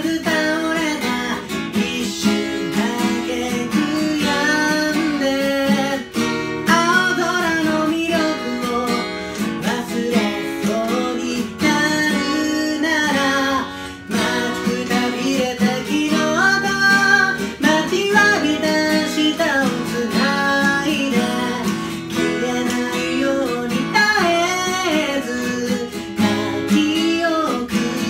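A song performed by a singer accompanying themselves on a strummed acoustic guitar.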